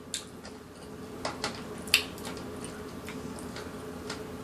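Close-up eating sounds: wet mouth noises and a few light clicks of utensils, with one sharper click about two seconds in, over a faint steady hum.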